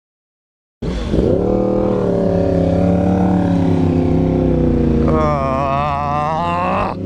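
Motorcycle engine running steadily, cutting in abruptly under a second in; a wavering higher tone joins for about two seconds near the end.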